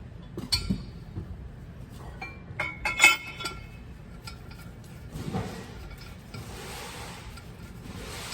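Metal parts or tools clinking against each other: a sharp ringing clink, then a quick cluster of clinks about three seconds in, followed by a soft steady hiss.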